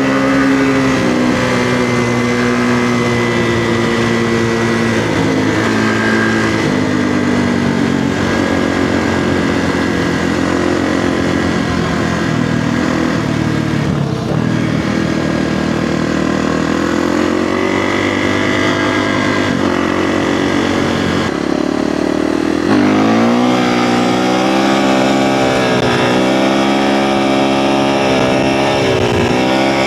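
Kawasaki KX450F single-cylinder four-stroke dirt bike engine being ridden, its pitch rising and falling with the throttle. From about two-thirds of the way through it gets louder and revs harder in repeated rising and falling pulls.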